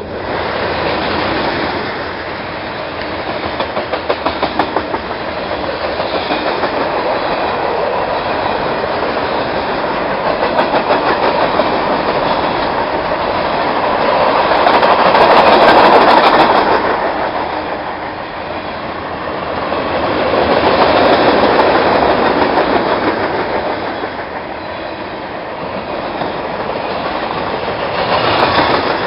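Freight train cars rolling past, their steel wheels clicking rapidly over the rail, the rumble swelling and easing in waves.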